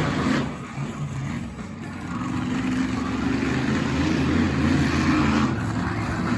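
Monster truck engine revving hard, its note climbing and getting louder from about two seconds in. It opens with a short burst of noise.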